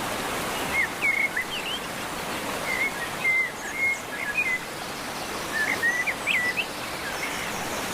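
Canary giving short, quick chirps in three little groups, over a steady hiss.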